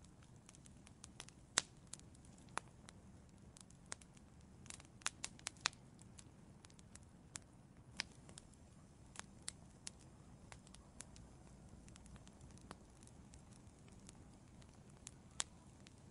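Wood crackling as it burns in an outdoor fireplace: irregular sharp pops and snaps over a faint steady background, with a quick cluster of pops about five seconds in.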